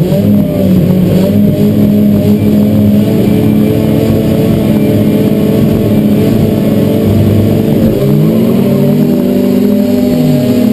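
Bilcross race car's engine heard from inside the stripped cabin, held at a steady pitch while the car waits at the start, then launching about eight seconds in: the revs climb, drop at a gear change and climb again.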